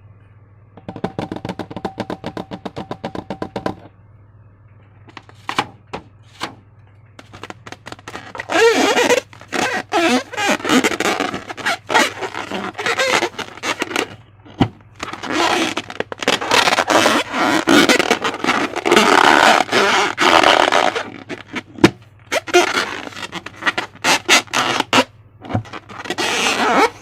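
Slime being squished and worked by hand: wet crackling and popping in long stretches. A quick run of fine clicks comes first, and a low steady hum sits underneath.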